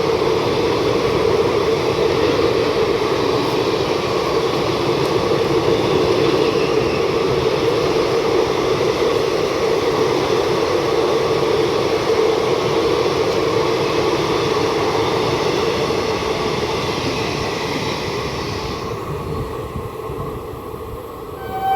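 A train running through a station without stopping: a steady rumble of wheels on rail at speed, which fades away over the last few seconds.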